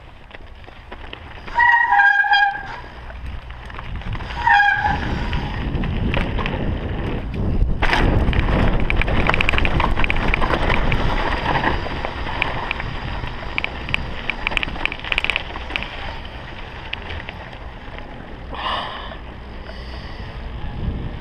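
Mountain bike rattling and clattering down a rough downhill trail, with wind noise. Two short, high brake squeals come about two and four and a half seconds in.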